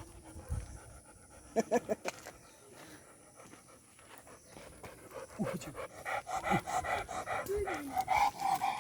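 A Nepali livestock guardian dog panting in quick, even breaths that grow louder in the second half, with a few short pitched sounds about two seconds in.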